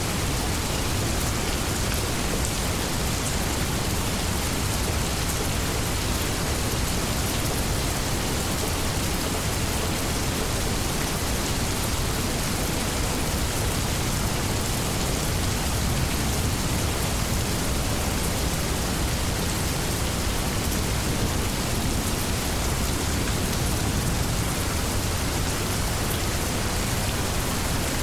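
Steady heavy rain falling on foliage, an even hiss with no let-up, with a low rumble underneath.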